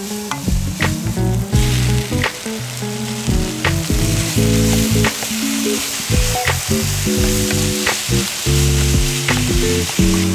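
Food frying and sizzling in a pan; the sizzle grows louder about a second and a half in. Instrumental background music with steady notes and regular clicks plays throughout.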